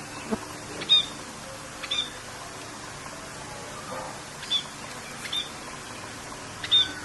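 A songbird giving five short, sharp chirps, spaced irregularly about a second or more apart, over a steady hiss of rain.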